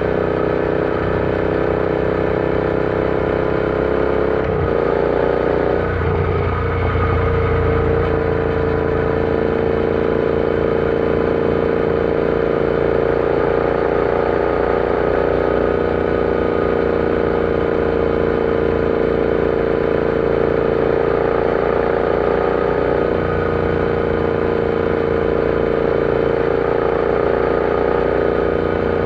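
Royal Enfield Interceptor 650's parallel-twin engine running under way at road speed. Its note shifts and drops about five seconds in, then holds steady for the rest of the time.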